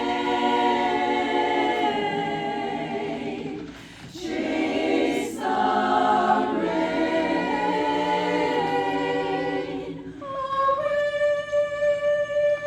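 A cappella choir singing held chords without recognisable words, with short breaks for breath about four seconds in and again near ten seconds. After that one high note is held steadily over the other voices.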